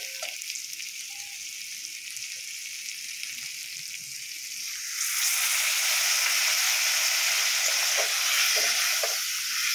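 Masala and peas sizzling gently in a hot kadhai. About five seconds in, a little water is poured into the pan and the sizzle jumps much louder and stays loud.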